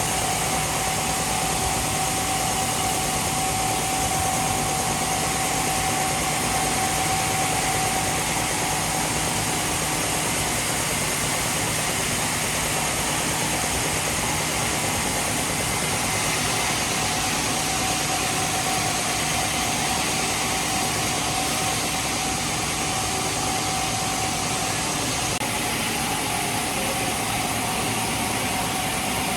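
Heavy machinery running steadily, a continuous engine-like noise with a constant whine over it.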